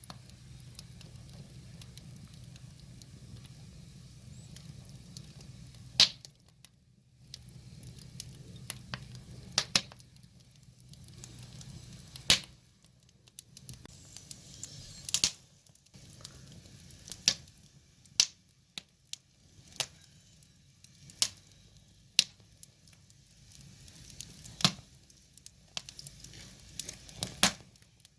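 Wood fire burning, with irregular sharp crackles and pops from the burning logs, a few of them much louder, over a faint low rumble that comes and goes.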